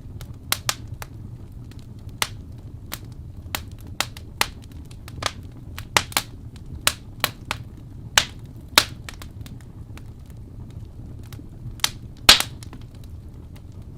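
Wood fire in a fireplace crackling: irregular sharp pops and snaps of burning logs over a steady low rumble of the flames, with a loud pop about twelve seconds in.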